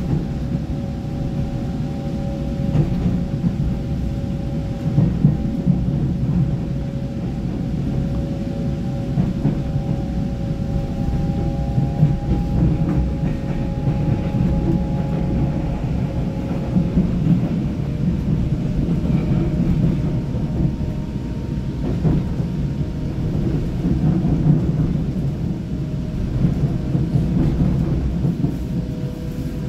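Cabin ride noise of a Taiwan Railway EMU900 electric multiple unit under way: a steady low rumble of wheels on rail with occasional faint knocks. Two thin whining tones from the traction drive drift slowly in pitch.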